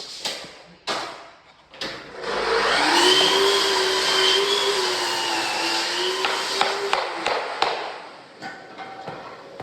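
A few sharp knocks, then about two seconds in an electric power-tool motor starts up and runs steadily at one pitch for about five seconds before stopping.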